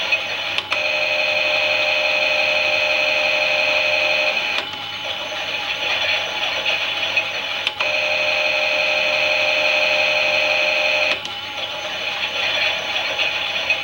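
Small battery motor of a toy Klein Miele washing machine turning the drum in bursts, a steady high whine for about three and a half seconds, then a pause of about three seconds. A click sounds as each burst starts and stops, and it runs twice.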